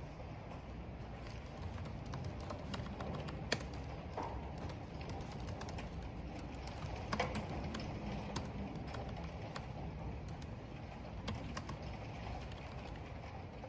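Computer keyboard typing, irregular key clicks scattered through, over a steady rumble of wind and rain.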